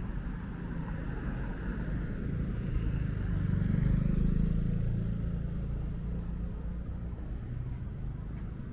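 A motor vehicle's engine passing close by, growing louder to a peak about halfway through and then fading away.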